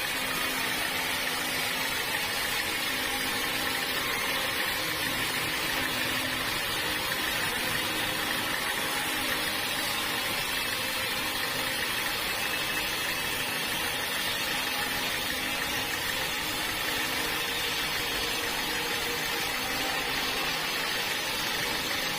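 A motor running steadily with an even mechanical noise and a faint steady hum, unchanging throughout.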